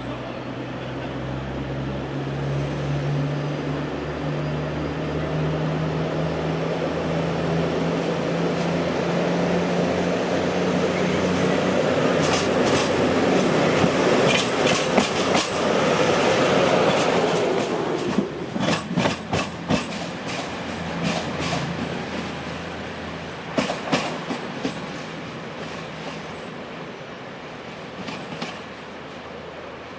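A diesel train moving past on the station tracks. Its engine note climbs slightly as the noise builds to a peak. Its wheels then clack sharply over rail joints several times before the sound fades away.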